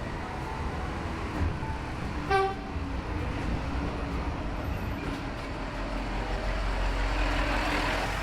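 Road traffic going by, with a short horn toot a little over two seconds in and a vehicle growing louder as it approaches near the end.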